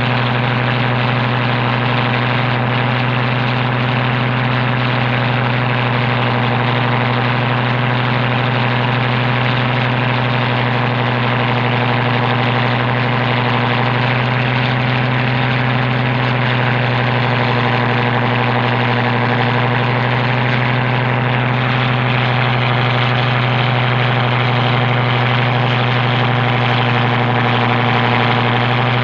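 Boat engine running steadily at a constant speed: a strong, unchanging low hum with many overtones.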